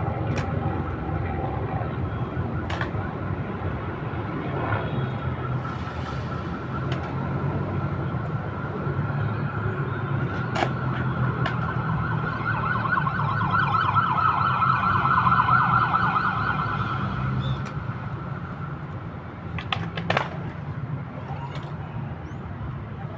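Emergency-vehicle siren with a fast warble, growing louder to a peak about two-thirds through and then cutting out, over steady city traffic rumble. A few sharp knocks and clicks are scattered through it.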